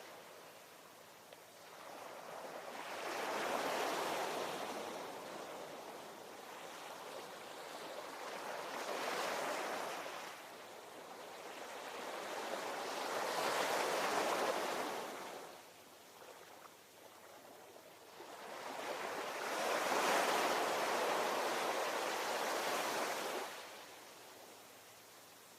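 Ocean waves: four surges of surf, each swelling up and washing away, several seconds apart, with quieter wash between them.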